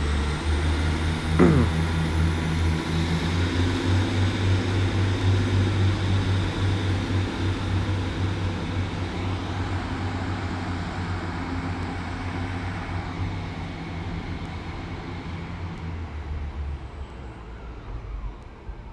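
Diesel multiple unit engines running with a steady low drone and a faint high whine, slowly getting quieter. A brief falling squeal comes about a second and a half in.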